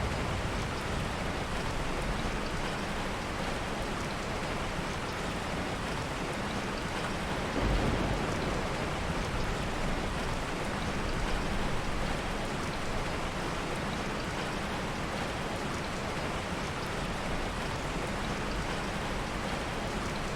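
Heavy rain falling steadily, with a brief low rumble of soft thunder about eight seconds in.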